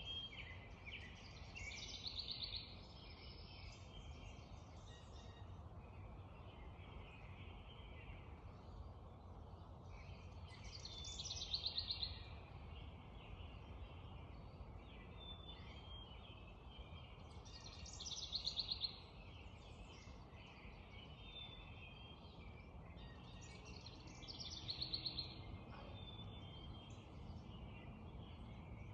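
Songbirds singing in a dawn chorus, with many overlapping chirps. One bird repeats a short, rapid trill four times, about every six or seven seconds, the loudest sound. A steady low rumble runs underneath.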